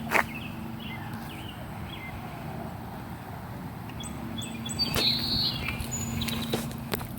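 Birds chirping in short calls, in two spells, with a few sharp clicks and taps and a steady low hum underneath.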